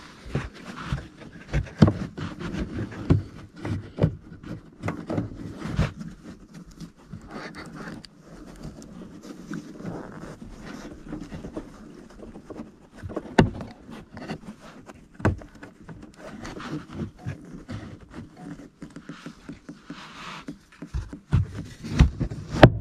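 Plastic car trim and light-fitting parts being handled and clipped back into place: irregular clicks, knocks and scraping, with the loudest sharp snap near the end.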